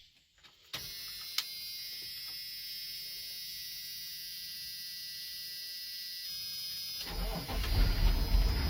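Chevrolet turbo-diesel tow truck engine being started after sitting for a couple of weeks: a steady high whine for several seconds, then about seven seconds in the engine cranks, catches right away and runs, a sign the batteries are still strong.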